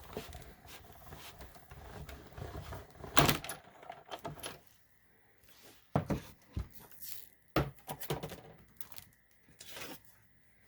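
Crafting tools handled on a tabletop: plastic cutting plates and an embossing folder clacking and knocking as cardstock is loaded and run through a manual cut-and-emboss machine, with irregular knocks, the loudest about three seconds in, and light rustling between.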